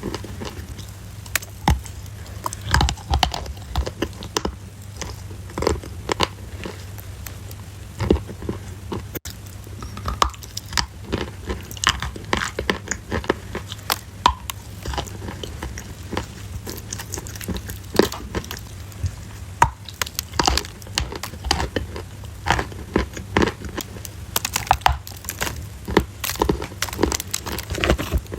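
Close-miked crunching: a dense, irregular run of sharp crunches and crackles, as of biting and chewing something crunchy.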